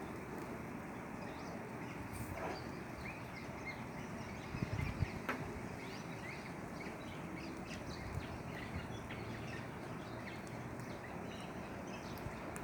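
Small birds chirping and calling over and over, many short chirps, over a steady background hiss. A few low buffets, like wind on the microphone, come about five seconds in.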